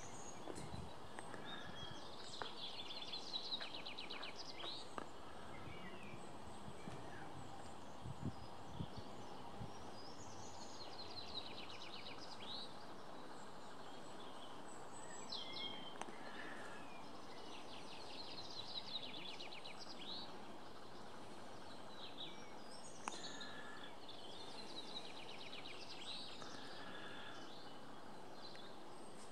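A songbird singing: a rapid high-pitched trill phrase of about two seconds, repeated four times roughly every eight seconds, over a steady background hiss.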